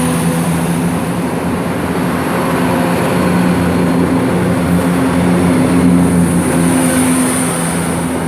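Chiltern Railways Class 168 diesel multiple unit pulling out of the station: a steady low drone from its underfloor diesel engines over even running noise from the train.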